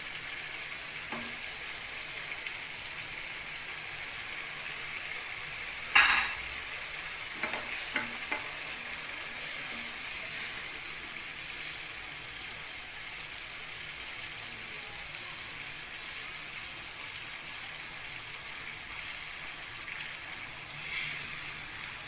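Curry masala sizzling in a frying pan as it is stirred with a slotted spoon. There is a sharp knock about six seconds in, with a few lighter clicks soon after.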